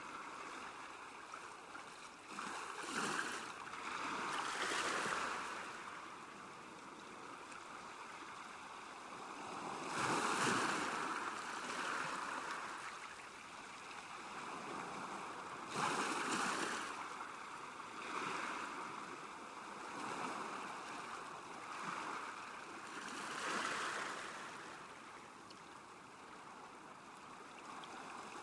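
Small waves washing onto a lake shore, each one swelling and falling back every few seconds, with the strongest surges about ten and sixteen seconds in.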